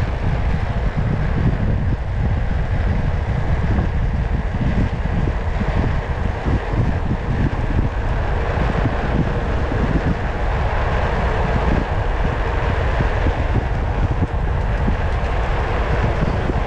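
Steady wind rush and rumble on the microphone while riding along a road, with no pauses or distinct events.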